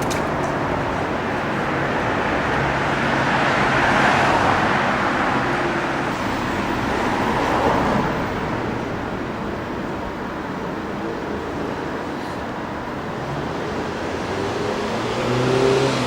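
Traffic rumble of passing vehicles: a steady noise that swells about four seconds in, again near eight seconds and near the end.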